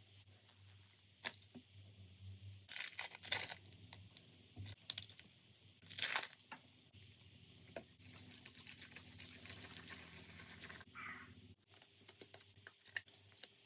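Slime being worked by hand, making sticky, wet crackles, pops and tearing sounds in irregular clusters. A steady hiss runs from about eight seconds to eleven.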